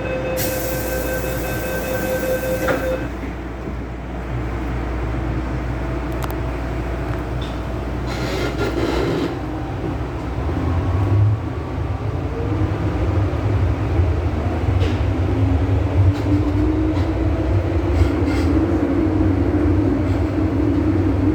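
MTR M-Train electric multiple unit on the Tsuen Wan Line. It opens with a steady tone and a hiss lasting about three seconds. The train then runs on with a rumble that grows louder, and a motor whine rises slowly in pitch in the second half as the train gathers speed.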